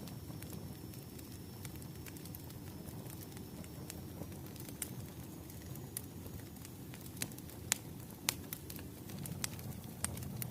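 Wood fire burning with a steady low rumble and scattered sharp crackles and pops, the loudest pair about eight seconds in.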